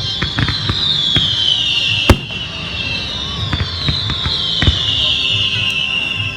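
Fireworks going off: scattered sharp bangs and cracks, the loudest about two seconds in, over a high hissing whistle that falls slowly in pitch, twice, each fall about three seconds long.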